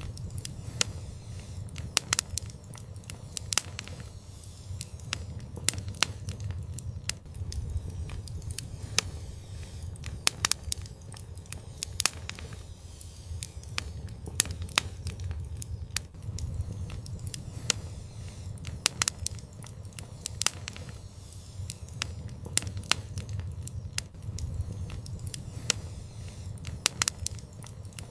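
Wood fire burning in an outdoor fireplace: a low steady rumble of flame with irregular sharp crackles and pops.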